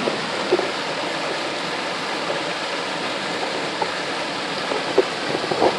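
Waterfall rushing steadily, with a few brief sharper splashes or knocks about half a second in and near the end.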